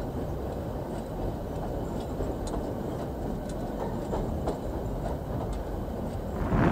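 Train cars rolling across a steel trestle viaduct: a steady low rumble with faint, scattered clicks from the wheels.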